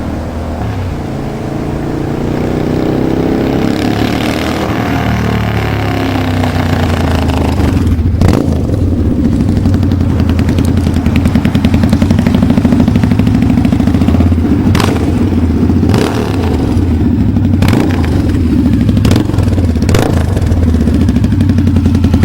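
Harley-Davidson V-Rod's liquid-cooled V-twin running through a dual-sided 2-into-2 aftermarket exhaust. The note rises and falls for the first few seconds, then holds a steady, loud, deep running sound. From about eight seconds in it is broken by several sharp cracks.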